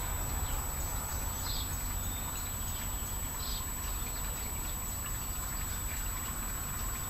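Two short, faint, high chirps from a bird in the first half, over a steady low rumble and hiss.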